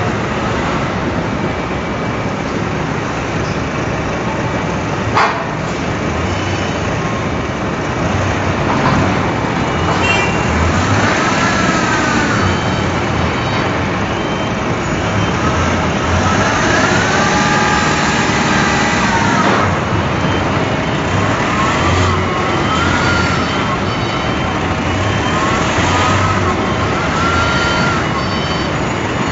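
Steady, loud industrial machinery noise, with rising-and-falling tones over it from about ten seconds in and a single sharp click about five seconds in.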